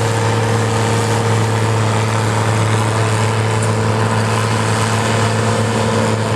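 Farm tractor engine running hard at a steady pitch, pulling a weight-transfer sled down the track under load.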